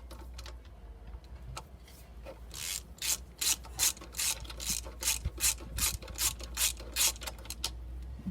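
Ratchet wrench clicking in quick back-and-forth strokes, about three a second, backing out a cylinder head bolt on a 350 Chevy V8. The strokes start about two and a half seconds in and stop shortly before the end.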